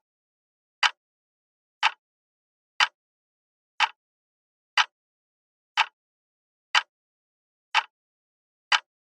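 Countdown-timer tick sound effect: short, sharp ticks evenly about once a second, nine in all, with dead silence between them, timing the answer pause of a quiz question.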